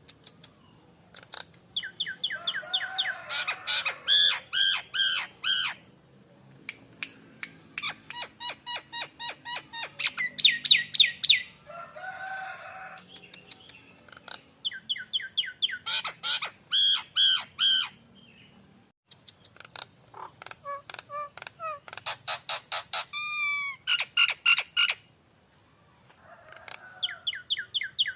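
Jalak Nias myna calling: bouts of sharp, rapidly repeated high notes, several a second, each run lasting a few seconds with short pauses between, as a prompting song for other birds to answer.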